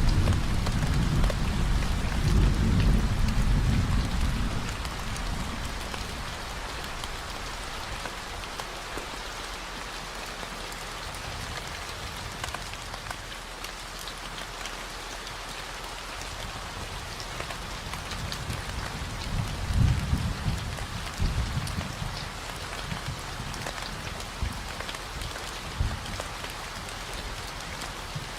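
Steady rain falling, with low rolls of thunder in the first few seconds and again about twenty seconds in, over a steady deep 40 Hz tone.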